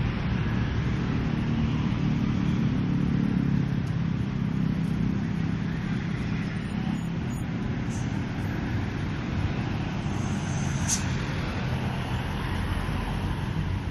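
Road traffic passing by: vehicle engines and tyres making a steady rumble that eases somewhat about halfway through.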